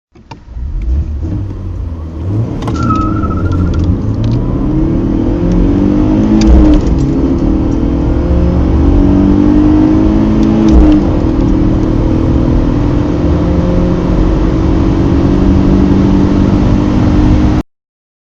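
Four-cylinder car engine under hard acceleration from a standstill, its pitch climbing steadily in each gear and dropping back at upshifts about 2, 6.5 and 11 seconds in, until it cuts off abruptly near the end.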